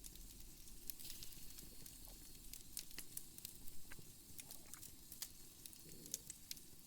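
Wood fire crackling in a fireplace: faint, irregular pops and snaps over a low steady rumble.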